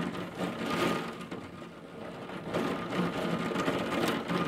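Strong storm wind rushing, swelling in gusts about a second in and again later.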